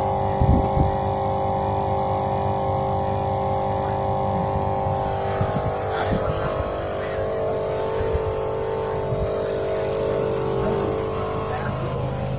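Vehicle engine idling steadily, with a few knocks and clatters about half a second in and around six seconds in.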